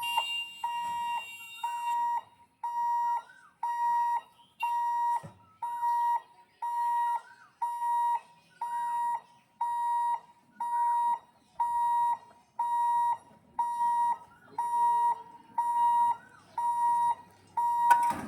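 Railway level-crossing warning alarm beeping: an even electronic beep repeated about every 0.7 s, sounding while the gate is closed for an approaching train.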